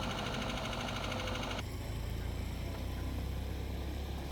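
A motor vehicle engine idling, a steady low hum. A higher, fine rattle over it stops abruptly about a second and a half in.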